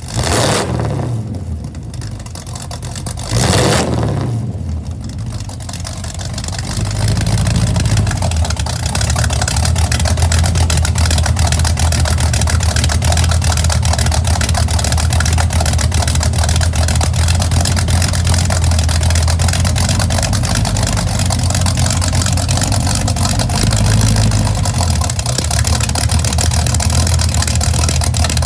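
Supercharged 355 small-block V8 heard through 3-inch dual exhaust with Flowmaster FX mufflers: two quick revs near the start, then running steadily with a low exhaust note that swells briefly near the end.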